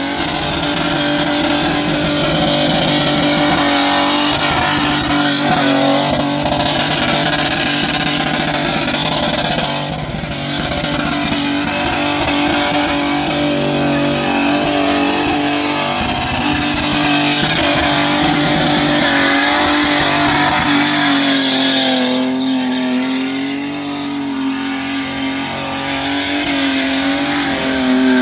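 V8 muscle car engine held at high revs during a burnout, running steadily at a wavering pitch, with a dense hiss over it. The revs ease briefly about ten seconds in and again a little past twenty seconds.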